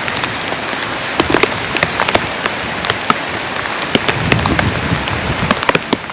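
Steady rain with large drops tapping irregularly on a nearby surface.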